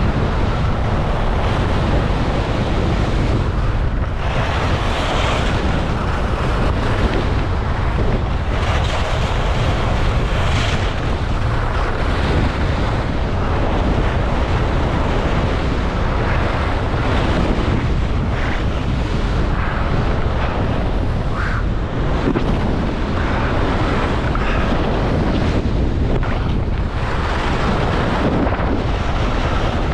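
Wind rushing and buffeting over an action camera's microphone at skiing speed: a loud, steady roar.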